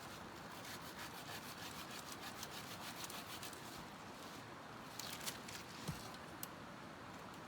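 Faint scraping and rubbing on wood with many small clicks, and a few sharper knocks a little past the middle.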